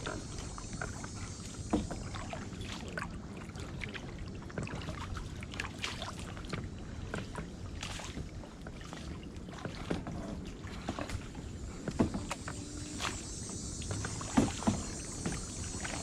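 Kayak paddling: irregular dips and splashes of the paddle in the water, with a few sharper knocks, the loudest about twelve seconds and fourteen seconds in.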